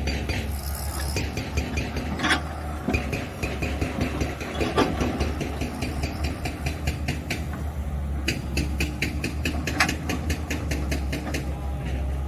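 JCB digger's diesel engine running with a steady low hum, over rapid rattling and a few sharp knocks of rock against the metal bucket as it digs.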